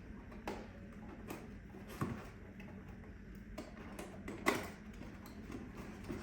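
Scattered light clicks and knocks of small hard objects being handled, with one sharper knock about four and a half seconds in.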